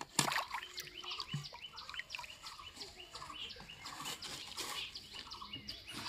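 Small birds chirping in a busy, repeated chatter, with a single sharp click just after the start.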